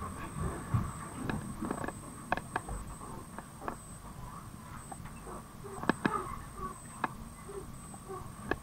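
Inside a moving train carriage: a low running rumble with irregular clicks and creaks from the carriage, the sharpest about six seconds in, over a faint steady high whine.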